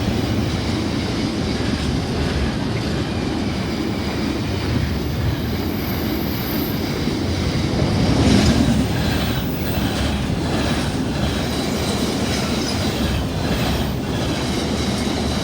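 Freight train wagons rolling past: a steady rumble of wheels on rail, with rhythmic clicking over the rail joints from about halfway through.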